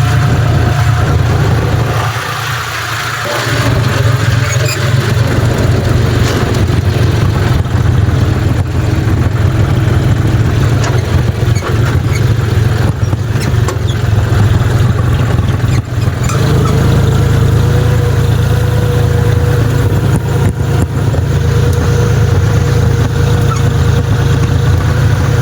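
John Deere tractor's diesel engine running steadily at work, easing briefly about two seconds in; a steady higher whine joins past the halfway point.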